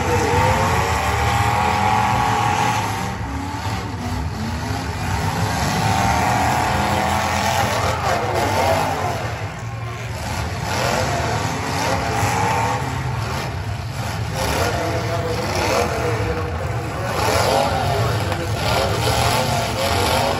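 Several demolition derby cars' engines revving hard at once, their pitches rising and falling over and over as the cars drive and ram each other in the dirt arena.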